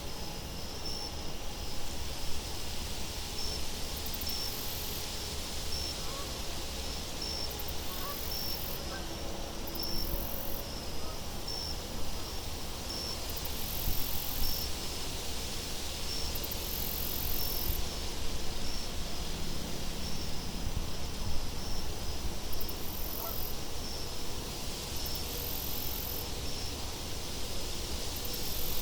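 Crickets chirping steadily, a high chirp about once a second with occasional higher trills, over a soft steady wind.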